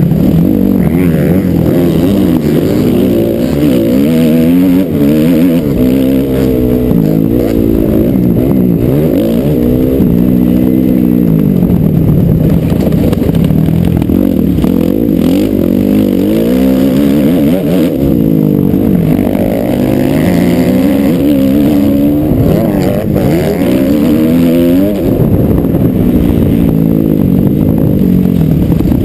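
Motocross bike engine running loud as it is ridden round a dirt track, its pitch rising and falling again and again with throttle and gear changes.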